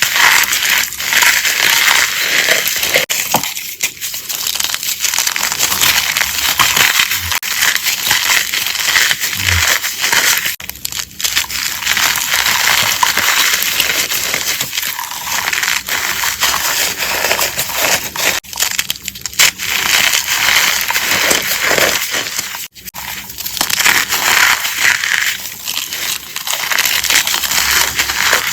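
Gym chalk being crushed and crumbled: a dense, continuous crunching and crackling with a few short pauses.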